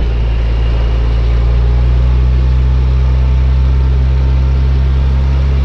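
4x4 vehicle engine running with a steady deep drone while driving slowly along a thick-sand track.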